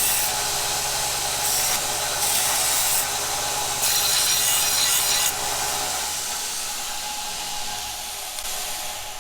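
A power tool cutting a metal oil pickup tube. The motor runs steadily while the cut comes in several harsh bouts over the first five seconds, then the motor is let off and winds down.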